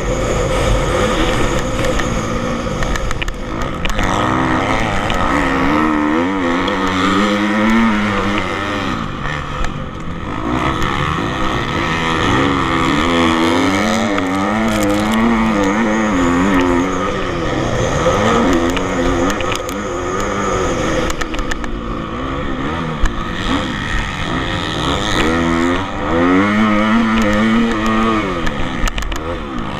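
Motocross bikes running on a dirt track, engines revving up and easing off over and over, the pitch rising and falling every second or so.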